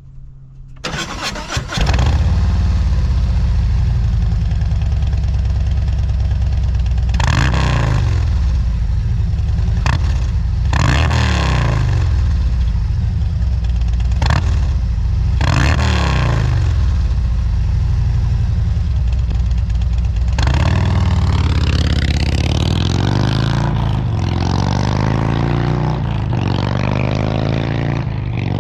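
2024 Harley-Davidson Road Glide's Milwaukee-Eight 117 V-twin breathing through Rinehart DBX40 slip-on mufflers: it starts about a second in and settles into a steady idle, with a few sharp throttle blips. In the last third it is revved again and again, rising and falling in pitch.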